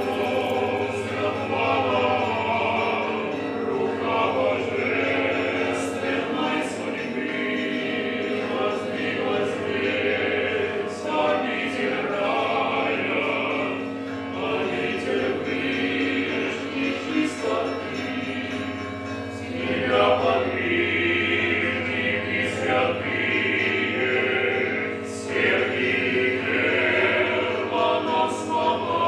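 Background music: a choir singing slow sacred choral music over a steady low held note.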